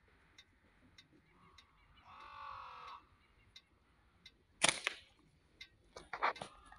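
A bird perched in the tree gives one drawn-out harsh call about two seconds in. Near the end there is a loud sharp click, then a few more clicks and knocks.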